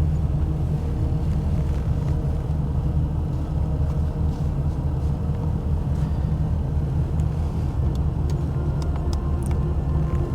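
Truck engine running as the truck creeps forward at low speed: a steady low rumble, with a few faint clicks in the second half.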